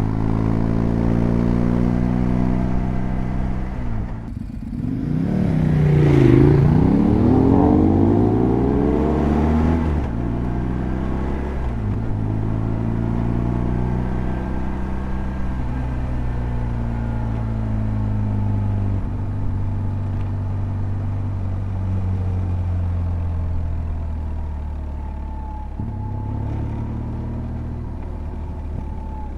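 2007 BMW R1200GS's boxer-twin engine running under way. It eases off briefly about four seconds in, then pitch swings up and down and it is at its loudest for a few seconds, before settling into steady running.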